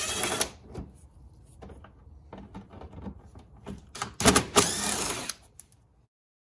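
Cordless drill/driver spinning out small 7mm bolts in two short bursts, one at the start and one about four seconds in, with light clicks of the socket and bolts being handled between them.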